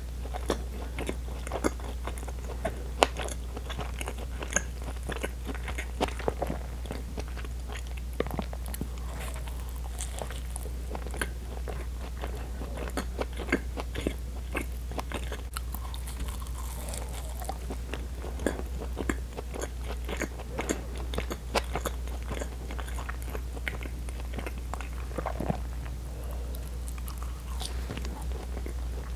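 Close-miked chewing of soft bread, a dense run of small, irregular mouth clicks. A steady low hum runs underneath.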